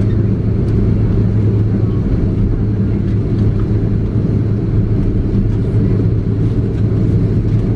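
Airbus A330-300 cabin noise while taxiing, with its Pratt & Whitney PW4168A engines at idle: a loud, steady low drone with a constant low hum.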